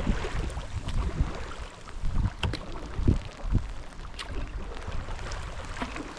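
Canoe paddle strokes splashing and dripping in the water, with gusty wind rumbling on the microphone.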